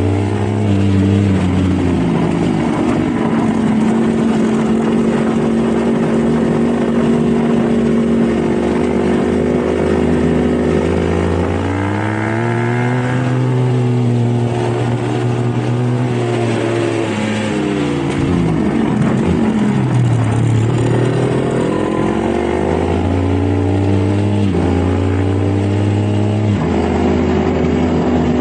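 Dirt bike engine running under way, its revs rising and falling with the throttle and gear changes, dipping briefly about two-thirds of the way through before picking up again.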